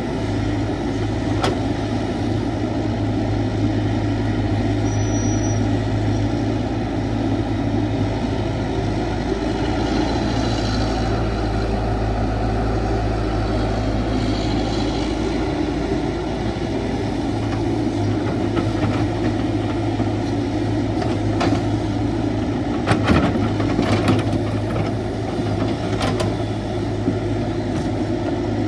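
CAT 312 excavator's diesel engine running steadily under load, with a few sharp knocks in the last few seconds.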